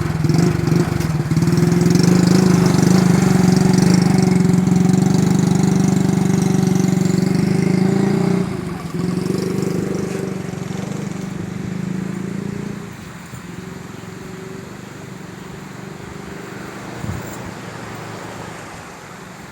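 A small engine running steadily at an even pitch. It is loud for about eight seconds, then grows quieter and fades low after about thirteen seconds.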